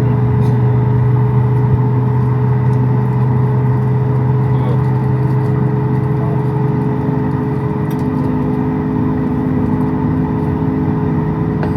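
Steady cabin noise inside a Boeing 737 MAX 8 on the ground: a constant hum of the engines and air-conditioning with several steady tones, heard from the passenger cabin.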